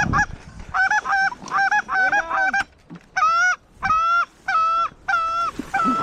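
Geese honking, loud and close: a run of quick clucks, then longer honks about once a second.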